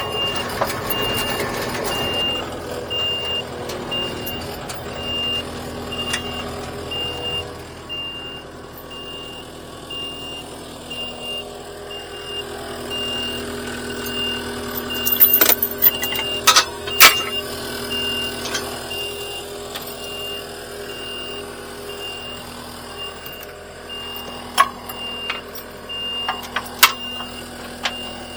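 A vehicle engine running with a backup alarm beeping steadily at an even rate, one unchanging pitch. Several sharp knocks or clanks come about halfway through and again near the end.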